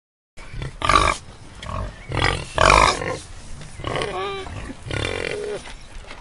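Pigs grunting in several short, loud bursts, then giving two higher, wavering calls near the end.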